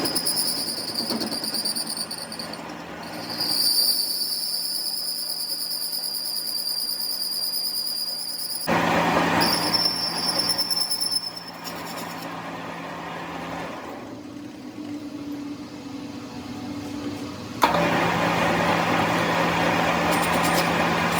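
Workshop machinery running with a steady low hum and, in stretches, a high-pitched whine. The sound changes abruptly several times.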